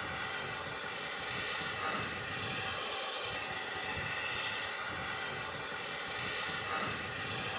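A steady engine drone with a constant pitched hum, unchanged throughout.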